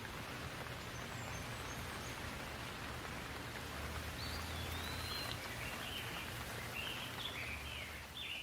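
Steady rain falling, with a bird singing a run of short chirping phrases over it from about halfway in.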